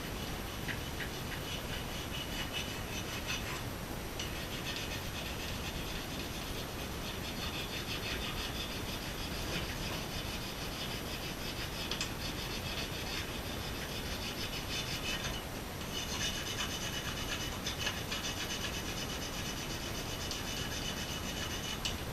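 A brush scrubbing a metal engine part clean with fast back-and-forth strokes, a steady rasping that pauses briefly twice, once about four seconds in and once about two-thirds of the way through.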